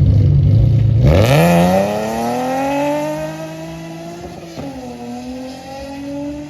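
A car engine accelerating hard: a loud low rumble, then about a second in its pitch climbs steeply and levels off, dips briefly past the middle and climbs again as the sound slowly fades.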